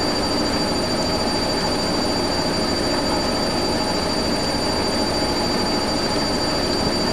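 Hoover Whisper 1600 front-loading washing machine spinning at speed during its final spin: a steady drum rumble with a constant high-pitched whine from the motor.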